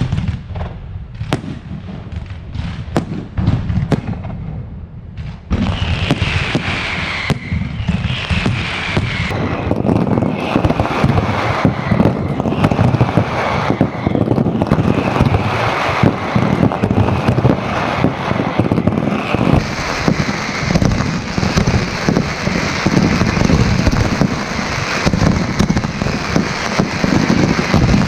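Aerial fireworks display: separate bangs for the first few seconds, then a dense, continuous barrage of bangs and crackling with whistles falling in pitch. It grows fuller about two-thirds of the way in.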